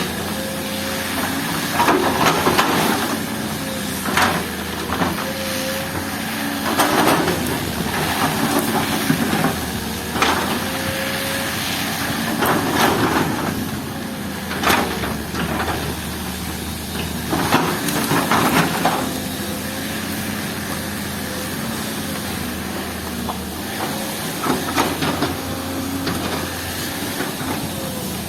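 Heavy earthmoving machine's engine running steadily under load, with about a dozen irregular crunches and scrapes of rock and soil being dug or pushed.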